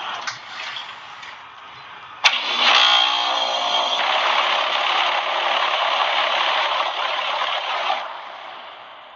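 2011 Bryant heat pump's reversing valve shifting for the defrost cycle: a sharp click about two seconds in, then a loud whoosh of refrigerant rushing through the system for about six seconds, fading near the end.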